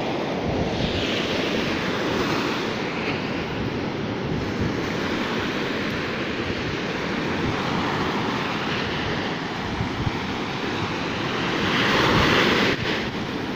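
Sea waves washing onto the shore, with wind blowing across the microphone. A wave surges louder near the end.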